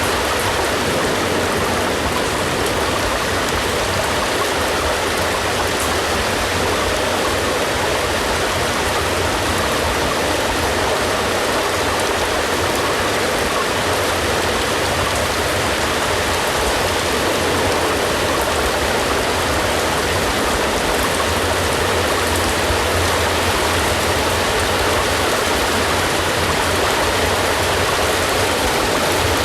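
Steady heavy rain, an even rushing hiss with no let-up.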